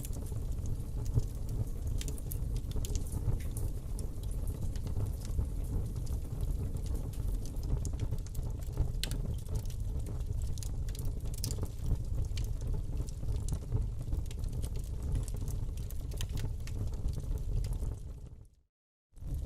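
Fire burning in a fireplace: a steady low rumble with frequent small crackles and pops. The sound fades out briefly near the end and comes back.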